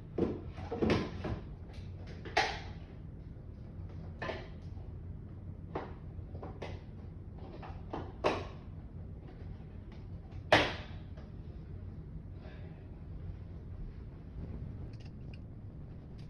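Irregular knocks and clatters from hard objects being handled, a dozen or so spread over the stretch, the loudest about ten and a half seconds in, over a steady low hum.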